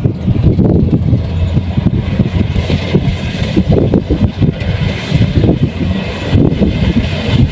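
Kubota DC105X combine harvester's diesel engine and threshing machinery running steadily: a loud, continuous low rumble.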